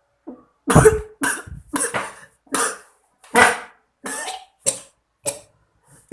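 Vocal beatboxing: a string of about nine short, breathy mouth-percussion hits, the first one about a second in the loudest, with a deep kick-like thump.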